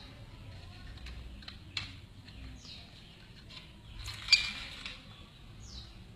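A small bird giving short falling chirps every few seconds, with scattered clicks and one louder sharp knock about four seconds in.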